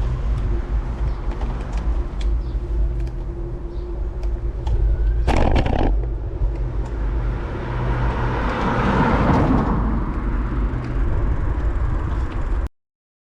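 Road traffic with heavy low wind rumble on a cyclist's camera microphone. A vehicle swells past about two-thirds of the way through, and the sound cuts off abruptly near the end.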